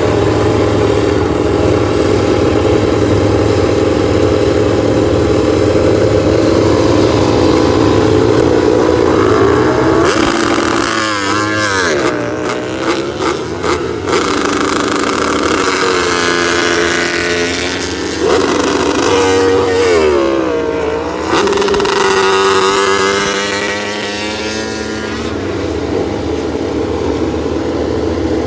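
Motorcycle engines, very loud. For about the first ten seconds they run at a steady pitch, then they rev up and down with rising and falling pitch as the bikes go past, several at once at times.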